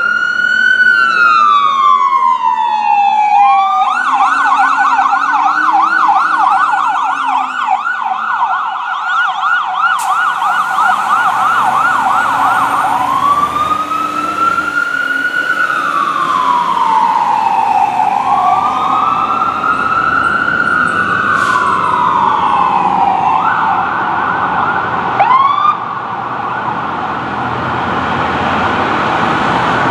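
Fire truck's electronic siren switching between a slow rising-and-falling wail and a fast yelp: a wail at first, a yelp from about four seconds in, a longer wail through the middle, then a fast yelp again for the last few seconds. A heavy truck engine rumbles underneath as the apparatus passes.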